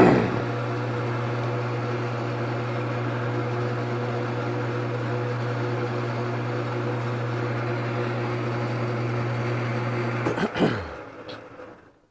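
Wood lathe motor running at a steady speed with an even hum while it spins a water-wetted workpiece to dry it. About ten and a half seconds in it is switched off and the hum falls in pitch as it winds down to a stop.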